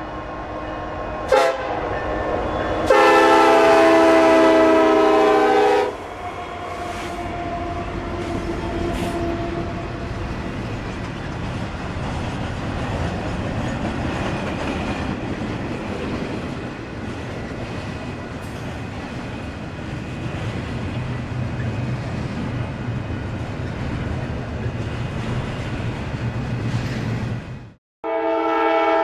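Diesel locomotive's multi-chime air horn: a short toot, then a loud blast of about three seconds, over the steady rumble of a passing train. After a brief break near the end, the horn sounds again.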